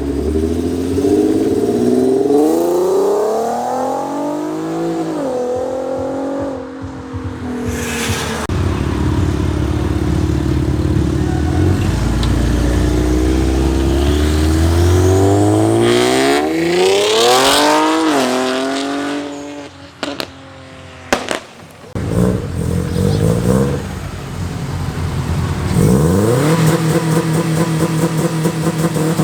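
Muscle cars accelerating hard one after another, the engine note climbing in pitch and dropping back at gear changes. A quieter stretch with a few sharp clicks comes past the middle, then another engine revs up near the end.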